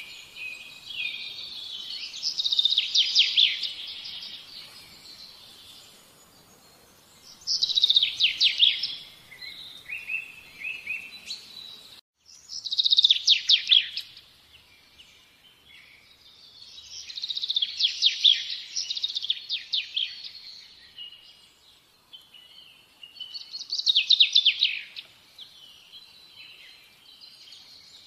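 Songbird singing in loud bursts of rapid high chirps and trills, one phrase about every five seconds, with softer chirps between.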